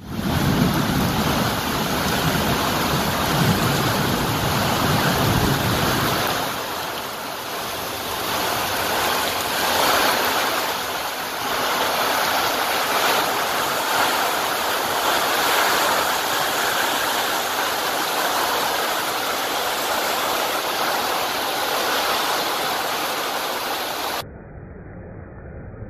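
Heavy downpour falling on a tin roof and soaked ground, a loud, steady rush of rain. A low rumble sits under it for about the first six seconds, and near the end the sound suddenly drops quieter and duller.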